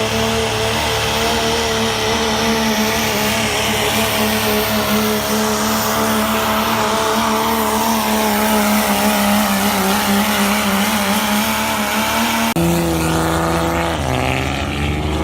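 Cummins diesel engine of a Dodge 2500 pulling truck running flat out under load during a pull, a loud, steady high-rpm note. About twelve seconds in the sound changes abruptly and the revs fall away.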